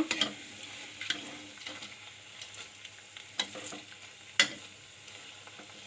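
Chicken pakoda fritters deep-frying in hot oil with a steady sizzle, while four sharp taps of a utensil against the pan sound as the fritters are turned over, the loudest about four seconds in.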